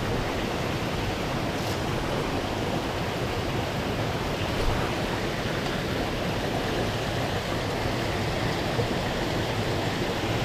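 Mountain stream rushing steadily, a constant wash of running water.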